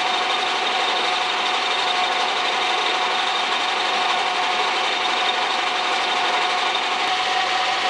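Metal lathe running, spinning a milling cutter held in its chuck as it cuts a metal workpiece on a cross-slide milling attachment: a steady machining drone with a constant whine.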